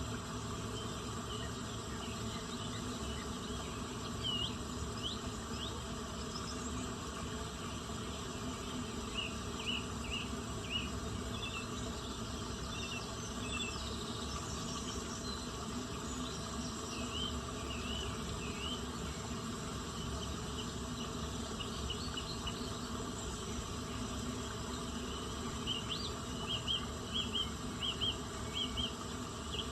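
Outdoor nature ambience: a steady insect hum with short, high chirps scattered through, ending with a quick run of about six chirps.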